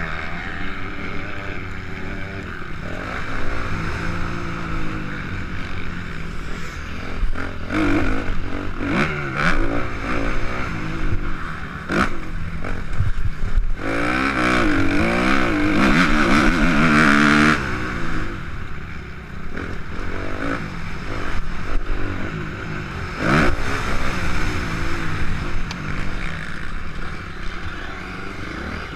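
Suzuki RM-Z 250 motocross bike's four-stroke single-cylinder engine revving up and down hard under riding, climbing and falling in pitch over and over, held at high revs for a few seconds about halfway through.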